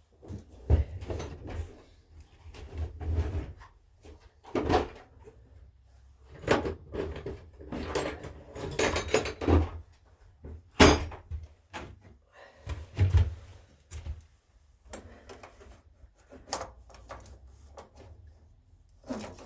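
Hand tools and engine parts being handled: an irregular string of knocks, clanks and rattles with short pauses between them.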